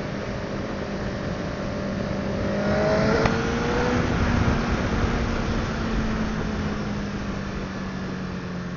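Honda CBR1000RR inline-four engine pulling hard, its pitch rising and then dropping at a gear change about three seconds in, under a steady rush of wind noise from riding speed.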